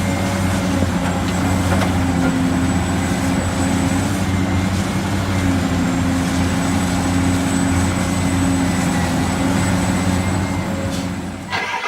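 Remote-control toy construction vehicle running: a steady engine-like hum with a thin high motor whine over it, cutting off shortly before the end.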